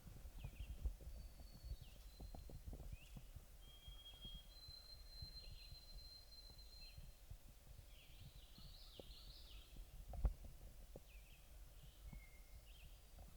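Faint wild bird calls: short high chirps about once a second and a long thin whistle. Under them are low bumps and rumble, with one louder thump about ten seconds in.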